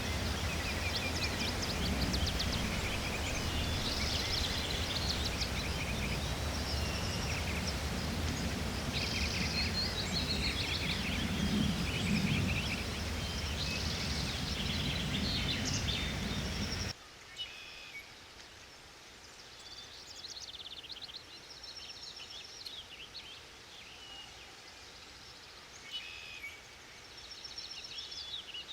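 Small birds singing repeated chirping phrases in a forest, over a steady rushing noise. The noise cuts off suddenly about two-thirds of the way through, leaving quieter birdsong.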